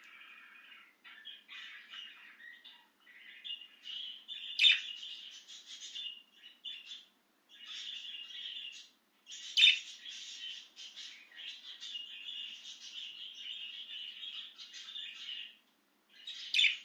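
Pet budgerigar warbling: a steady, rapid chatter of chirps with brief pauses, broken by three sharp, louder calls.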